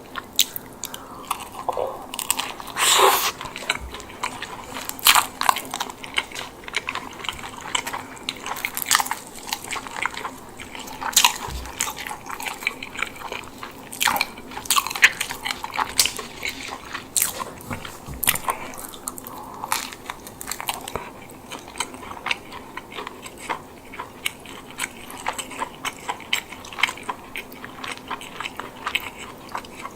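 Close-miked eating of a chicken bake, a baked bread roll filled with herb chicken and mozzarella: bites into the crust crunch, followed by irregular wet chewing clicks, with one longer crunch about three seconds in.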